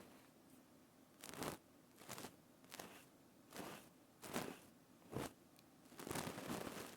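Close-miked ASMR trigger sounds: a series of short, crackly crunches and rustles, about seven in all, with brief pauses between them.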